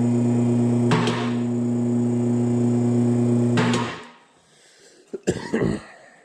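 Electric motor of a mower lift running with a steady hum as it raises the zero-turn mower, with a couple of sharp clicks; it stops about four seconds in, followed by a few short knocks.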